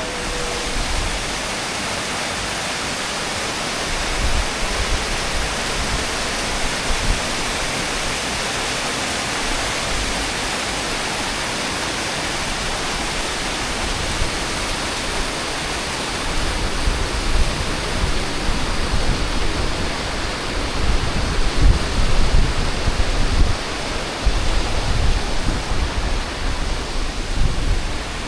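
Steady rushing of a rainforest stream flowing over rocks, with irregular low rumbles joining in during the second half.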